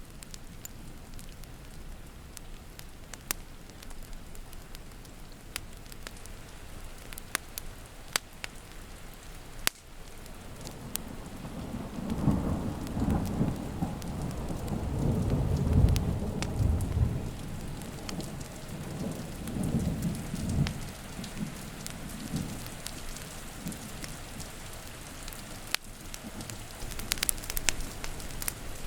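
Steady rain with a long roll of thunder that swells about midway, peaks, rumbles once more and fades. Scattered sharp pops and crackles of a wood fire run through it.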